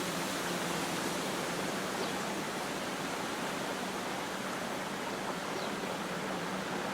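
Steady rush of flowing water, an even hiss-like noise with no breaks.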